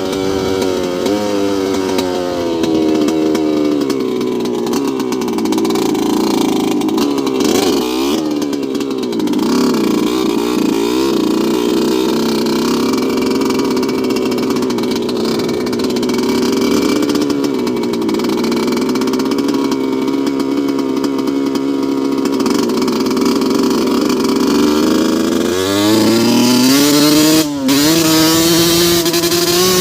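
2002 Yamaha YZ125 125cc two-stroke single-cylinder motocross bike running, its engine note holding fairly steady with small wavers in pitch. Near the end the revs climb sharply, with one brief cut in the sound.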